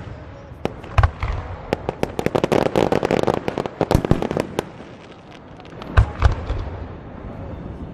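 Aerial fireworks: a shell bursts about a second in, then a rapid string of sharp pops for about three seconds, then two more booms about six seconds in.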